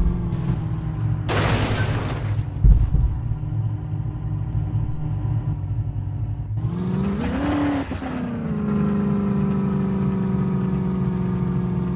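Racing car engines running hard with a steady engine note. There are two short bursts of rushing noise, one about a second and a half in and one about seven seconds in. During the second burst the engine pitch rises and then drops back.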